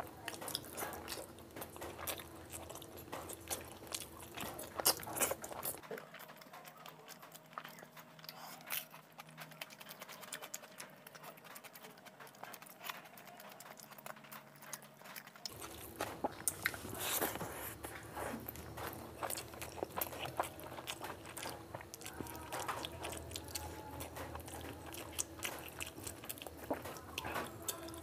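Close-up eating sounds of a person chewing mouthfuls of rice and curry eaten by hand, with many small clicks and smacks throughout.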